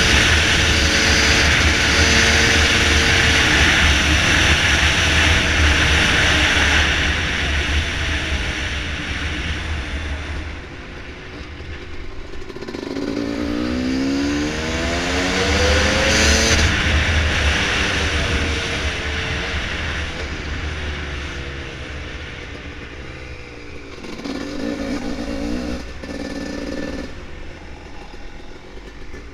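Dirt bike engine running on a trail, its note rising and falling with the throttle about halfway through and again near the end, under a loud rushing noise that is heaviest in the first ten seconds.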